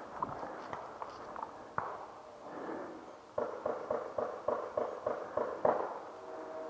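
Paintball markers firing: a few scattered pops, then from about halfway a rapid string of about a dozen shots at about five a second.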